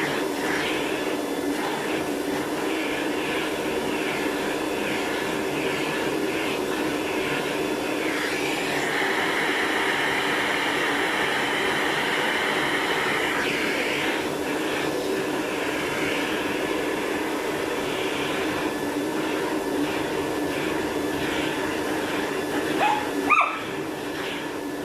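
Vacuum cleaner running steadily while grooming a dog's fur, its airflow louder for a few seconds in the middle. Near the end a dog gives a short rising yelp.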